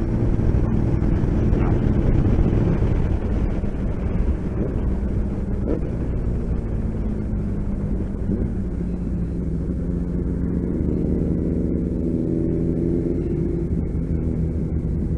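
Motorcycle engine running under way with a low rush of wind and road noise; over the last few seconds its note steps up and down in pitch as the bike changes speed.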